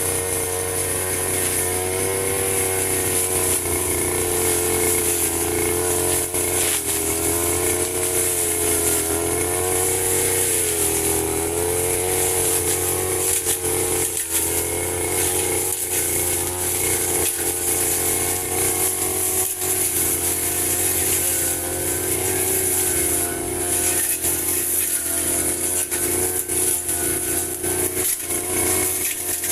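Firman FGB 528 two-stroke brush cutter running steadily at working speed while cutting grass, its engine pitch wavering slightly as the load changes.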